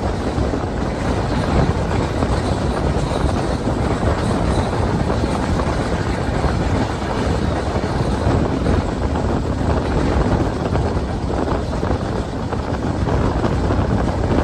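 Train running at speed, a steady unbroken rumble with rushing air.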